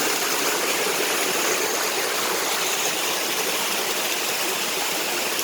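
Flowing water, a steady, even rush like a stream or small waterfall.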